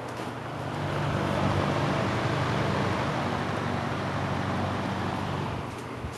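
Early-1950s Lasko Executive box fan with a Westinghouse motor, running: a steady rush of air over a low motor hum. It grows louder about a second in and drops a little near the end.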